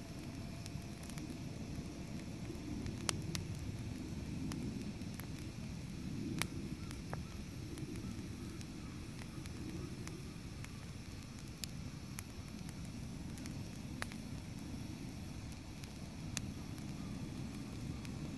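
Wood campfire burning, crackling with sharp pops every few seconds over a steady low rumble.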